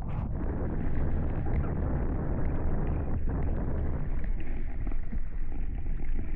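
Steady rushing of wind on the microphone and water along the hulls of a Hobie 16 catamaran under sail, heaviest in the low rumble.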